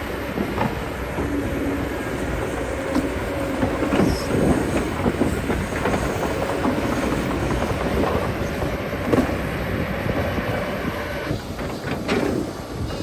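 Excavator at work: a machine running steadily under irregular metallic clanks and rattles.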